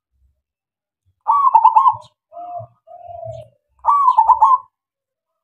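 Male zebra dove (perkutut) singing: two loud phrases of rapid, rolling coos about two and a half seconds apart, with two softer, lower coos in between.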